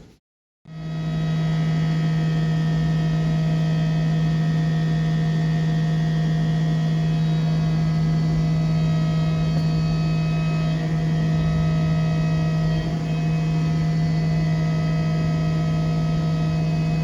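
DMG MORI M1 CNC milling machine cutting a steel part, a steady, unchanging machining tone with fainter higher tones above it. It comes in after a brief moment of silence at the very start.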